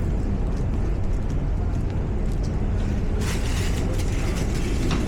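Underground station ambience: a steady low rumble, with a hissing burst starting about three seconds in and lasting nearly two seconds.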